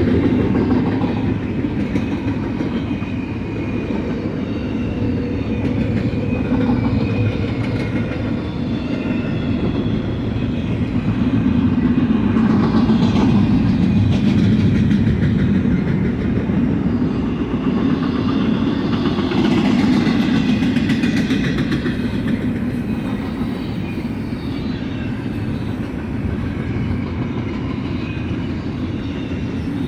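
Double-stack container train's well cars rolling past, with a steady rumble of steel wheels on rail and some clacking. The rumble swells and eases a little as the cars go by.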